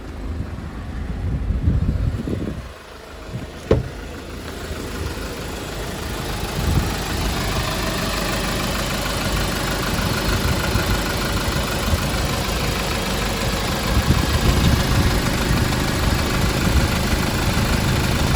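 Hyundai Porter II truck's diesel engine idling steadily, growing louder a few seconds in as it is exposed. There is a sharp click about four seconds in.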